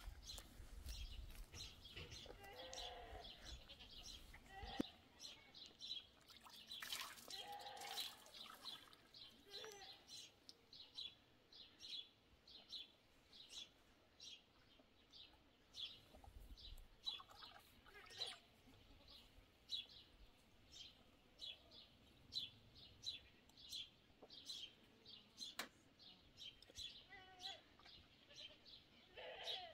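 A bird chirping over and over, faint short high chirps about one or two a second, with a few lower animal calls now and then.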